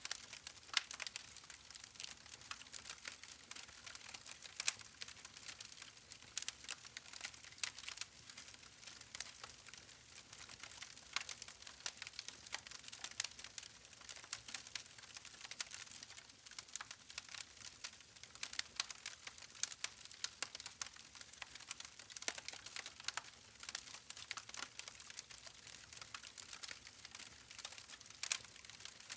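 Wood fire burning with constant irregular crackling and popping of the logs over a faint hiss.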